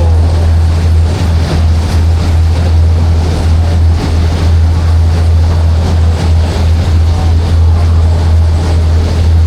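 Passenger ferry's engine running with a steady deep hum, under a constant wash of wind and water noise.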